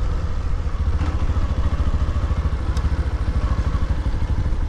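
Motorcycle engine running steadily while being ridden, its exhaust giving a fast, even pulse.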